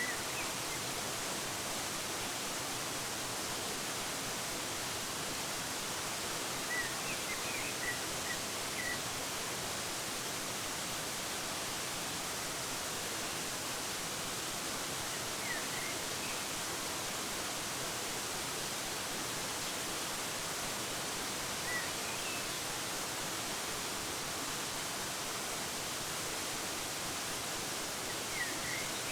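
Steady rushing of a waterfall, with small birds chirping briefly over it: a run of several quick chirps about seven seconds in, and single short calls now and then after that.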